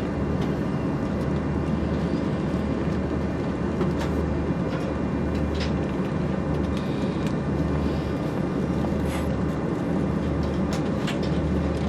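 Steady rumble and hum inside the cabin of an Airbus A340-600 on the ground, with a low throb that swells and fades every second or two and a few faint clicks.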